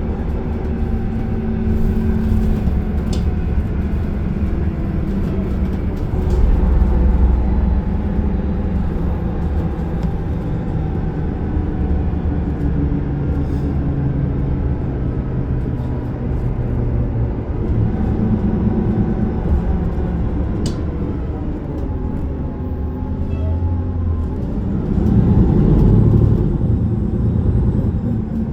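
City bus running, heard from inside the passenger cabin: a steady engine drone and road rumble, with the engine note shifting as the bus speeds up and slows. It swells louder twice, and there are a couple of sharp clicks.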